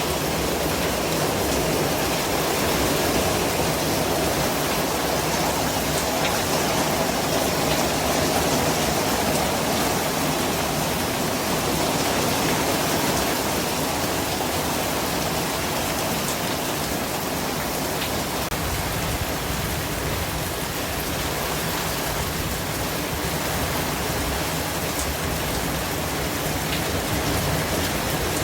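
Steady white noise: an even, unbroken rushing hiss that does not change in level, with a few faint ticks.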